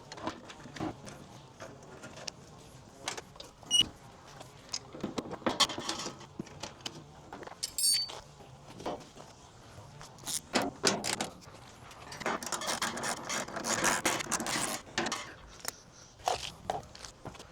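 Clinks, knocks and rattles of loose metal parts and hand tools being handled, with one short metallic ring about eight seconds in and a denser clatter from about twelve to fifteen seconds in.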